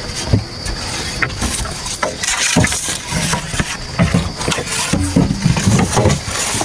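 Wood or bamboo being worked by hand, with irregular scraping strokes and knocks.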